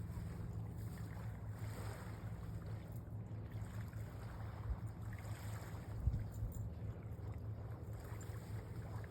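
Boat motor running steadily under wind and water noise, with a single knock about six seconds in.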